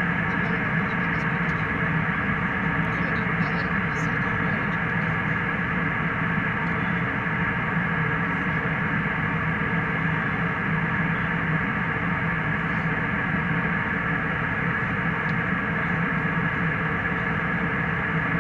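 Steady cabin noise of a jet airliner in cruise flight, an even hum without change.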